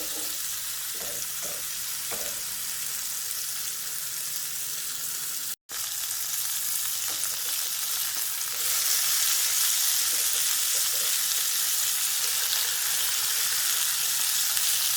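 Marinated chicken cutlets sizzling in oil on a hot stovetop grill pan, a steady hiss. It cuts out for an instant about five and a half seconds in and comes back louder a few seconds later.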